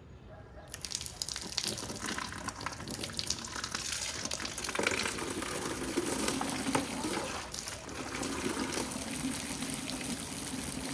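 Water running, starting about a second in and growing louder over the next few seconds, then steady.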